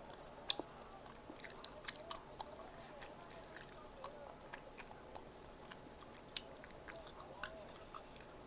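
Close-miked chewing and biting of Korean bunsik snack food, with many sharp crunchy clicks scattered through, the loudest about six and seven and a half seconds in.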